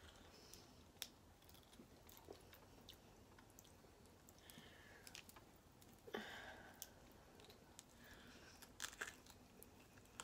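Faint close-up chewing and wet mouth sounds, with scattered small clicks as snow crab shell is picked apart by fingers.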